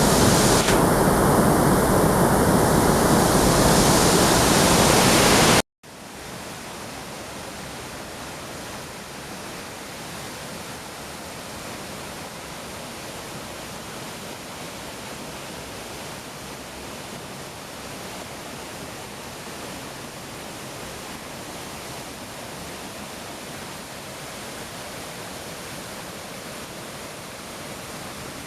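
Nunobiki Falls in heavy flow after rain: a loud, steady rush of falling water. It cuts off abruptly about six seconds in, then goes on as a much quieter, even rush.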